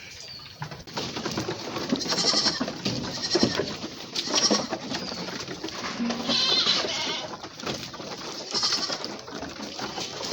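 Goats bleating in a shed: about six short, high calls a second or two apart, over a steady clatter of small knocks and shuffling.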